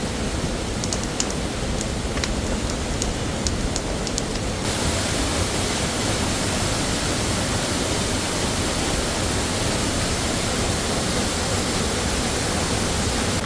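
Steady rushing of a waterfall. For the first few seconds light, irregular crackling ticks sound over it, then they stop at a sudden change and only a smoother, brighter rush goes on.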